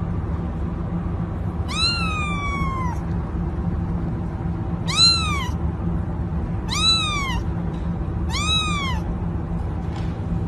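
A domestic cat meowing four times, each call rising then falling in pitch, the first one drawn out longer than the other three. A steady low hum runs underneath.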